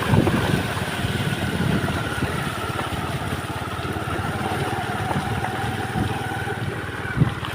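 A motor vehicle's engine running steadily, with a low rumble.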